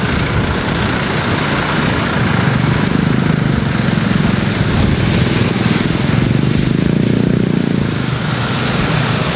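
Jet aircraft engines running loud and steady, swelling between about two and eight seconds in.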